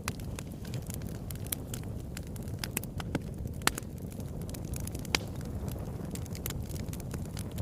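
Wood fire burning in a fireplace: a steady low rumble of flames with irregular crackles and snaps, one sharper pop near the middle.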